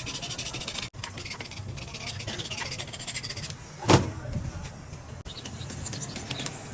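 Metal workshop handling noise: scraping and rubbing, with one sharp knock just under four seconds in.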